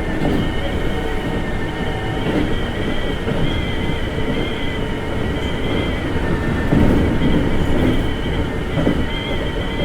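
Interior running sound of a Keikyu 1500-series electric train car between stations: a steady rumble of wheels on rail with a steady high whine, slightly wavering.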